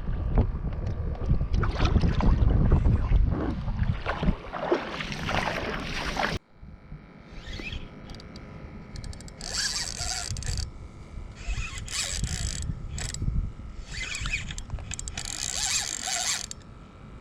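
Wind buffeting the microphone loudly for several seconds, then cutting off abruptly. After that, quieter, with repeated short rasping, hissing bursts about every two seconds over a faint steady hum.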